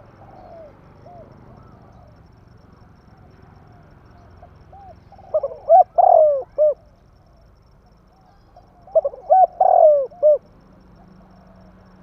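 Spotted dove (tekukur) cooing: a faint coo near the start, then two full phrases of arched, repeated coo notes, about five and nine seconds in.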